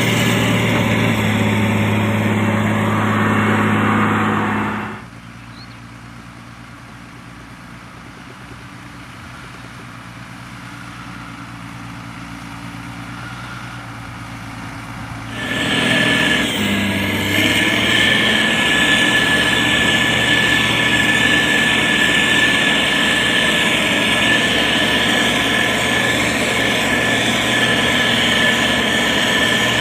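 Heavy diesel engine of a motor grader running. It is loud for the first five seconds, drops suddenly to a quieter level, then comes back loud about halfway through with a steady high whine over it.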